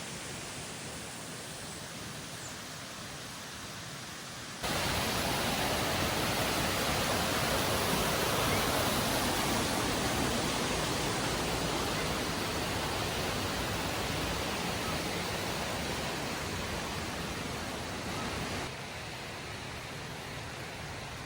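Steady rush of running water. It jumps abruptly louder about four and a half seconds in and drops back just as abruptly near the end.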